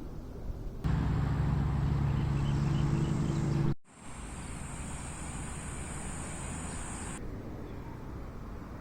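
Steady vehicle running noise, broken into abrupt segments. A louder stretch with a low steady drone starts about a second in and cuts off suddenly near four seconds. A steadier hiss with a high whine follows and drops away after about seven seconds.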